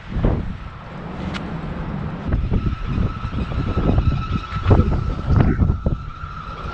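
Strong gusty wind buffeting the microphone in irregular low rumbling surges, with a thin steady high tone coming in about two and a half seconds in.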